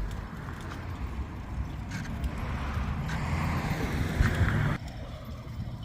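Car driving, with engine rumble and road noise that swell through the middle and drop off suddenly a little before the end.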